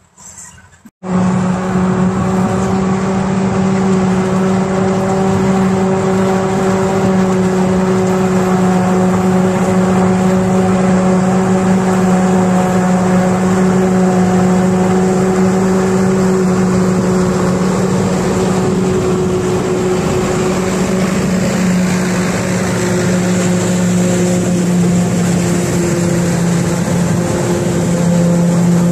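Heavy diesel farm machinery running steadily at constant revs, a loud even drone that cuts in abruptly about a second in.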